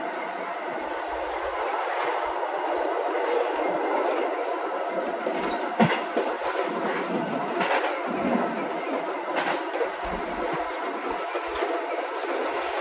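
Keio Line electric commuter train running along the track: a steady rolling rumble broken by a few sharp wheel clacks over rail joints, the loudest about six seconds in.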